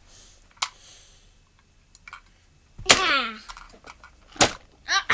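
Sharp clacks of toy monster trucks knocking together, a clear one about half a second in and a louder one just after four seconds, with a child's voice sliding down in pitch about three seconds in.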